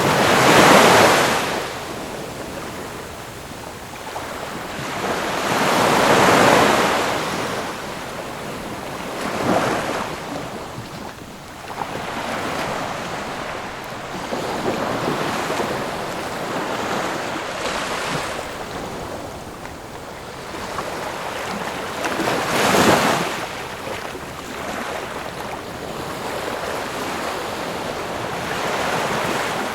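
Ocean waves breaking and washing on a shore, in slow surges: strong ones about a second in, around six seconds, near ten seconds and around 23 seconds, with a softer wash between them.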